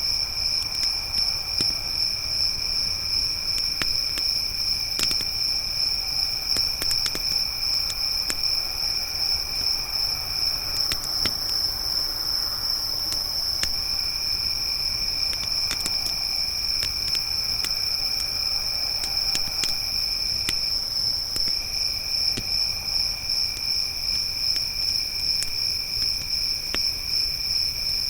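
Crickets singing in a continuous high, rapidly pulsing trill, with a second, lower insect trill that breaks off twice for a second or two. Scattered crackles and pops from a wood campfire.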